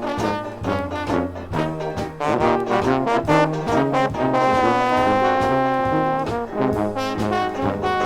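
Dixieland jazz band playing an instrumental passage to a steady beat, with brass horns leading and a long held note with vibrato about five seconds in.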